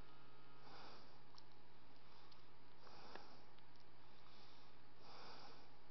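Three soft breaths or sniffs, about two seconds apart, over a steady low electrical hum.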